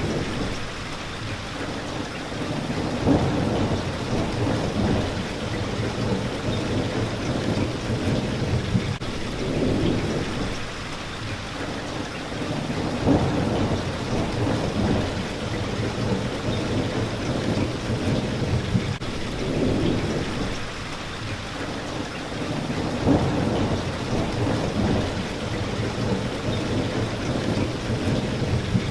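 Steady rain beating on a window pane, with low rolling rumbles of thunder swelling and fading under it.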